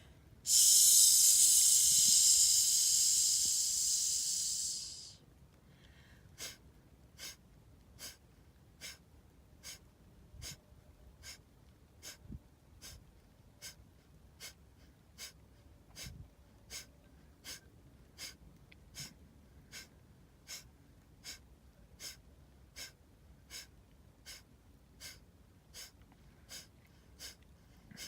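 A woman doing kapalabhati (breath of fire). It opens with one long, loud hissing exhalation lasting about four seconds, then moves into short, forceful exhalations through the nose at about one a second.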